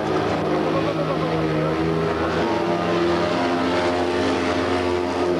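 Small air-cooled two-cylinder engines of Fiat 126p race cars running hard around a dirt track, several engine notes overlapping in a continuous drone that shifts slightly in pitch.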